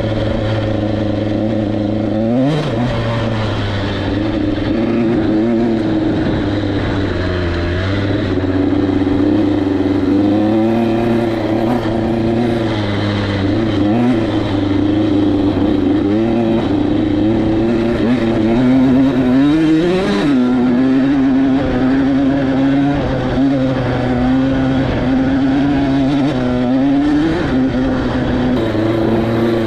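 KTM 85SX single-cylinder two-stroke dirt bike engine running under a rider, its pitch rising and falling with the throttle, with sharp revs about two seconds in and again near twenty seconds.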